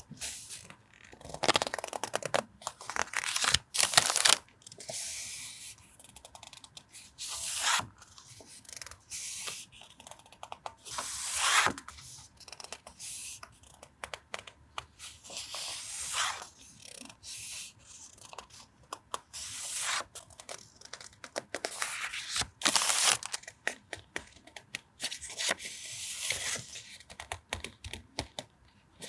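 Paper and packaging being handled: sheets rustling and sliding in irregular swishes of a second or less, with light taps and clicks between them.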